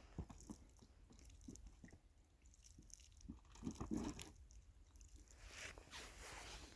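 Near silence with faint, scattered small knocks and rustles, and a brief crunchy cluster about four seconds in.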